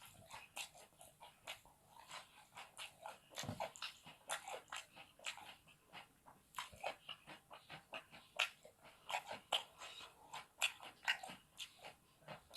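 Close-miked chewing of fried rice stick noodles: a quick, irregular run of short mouth smacks and crunches, several a second.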